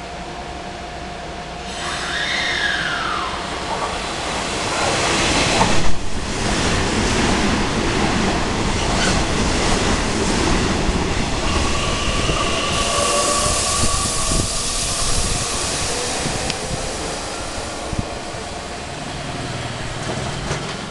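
Nishitetsu 6000-series electric train passing through the station at speed without stopping. It comes in about two seconds in with a falling tone, is loudest around six seconds, and runs on as a steady rush and rumble of wheels on rail, with a thin whining tone for a few seconds in the middle. It fades away near the end.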